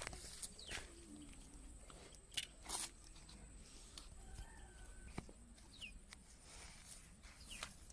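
Faint chicken clucks mixed with short bird chirps, with a few sharp clicks in between.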